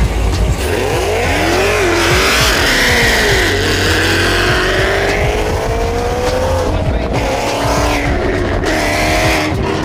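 Supercharged V8 of a Dodge Charger Hellcat revving and accelerating hard. Its pitch swings up and down in the first few seconds, then climbs steadily for about three seconds through a gear, before more rising pulls near the end.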